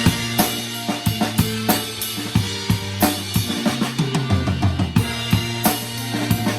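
Drum kit played in a fast, steady groove, kick and snare prominent, over the sustained pitched notes of a band in an instrumental passage with no vocals.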